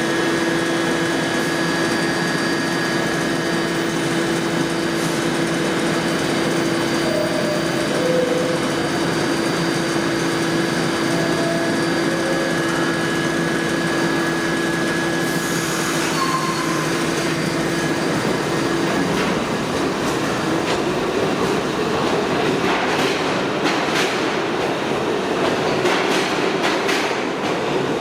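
R68 subway train standing with a steady electrical hum, then pulling out about two-thirds of the way in with a rising motor whine and wheels clicking over the rail joints.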